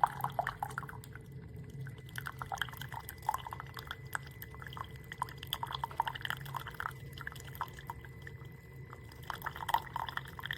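Horavie Mini single-serve coffee maker brewing: coffee dripping and spattering irregularly into a cup over a steady low hum from the machine.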